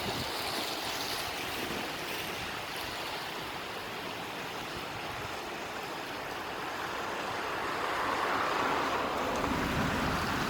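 Waves washing onto the beach as a steady hiss of surf, swelling louder over the last few seconds as a wave breaks and runs up.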